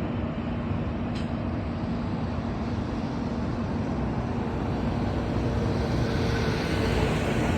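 Union Pacific rock train passing: a steady rumble of freight cars rolling on the rails, growing slightly louder near the end.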